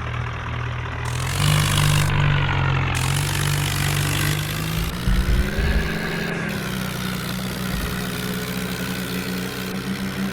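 Heavy diesel engine running and revving under load: its pitch steps up about a second and a half in and again around five seconds in, with a few heavy low thumps near the five-second mark.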